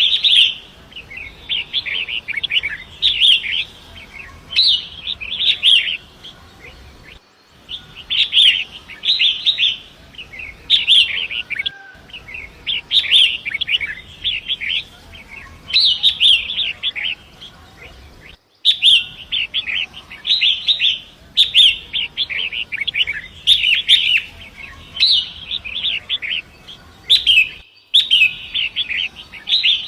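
Long-tailed shrike singing a run of scratchy, chattering phrases, one every second or two, over a faint steady rush of flowing water. The audio cuts out briefly four times, as at the seams of a looped recording.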